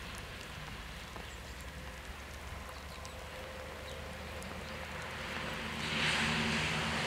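An approaching train: a steady low engine hum that grows louder over the last couple of seconds, joined near the end by a rising rush of wheel and running noise.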